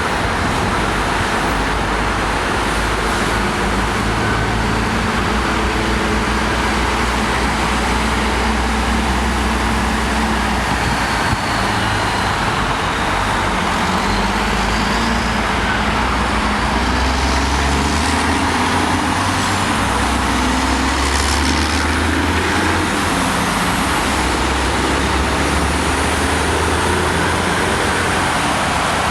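Freeway traffic noise: vehicle engines and tyre roar, steady throughout, with a low engine hum that shifts in pitch now and then.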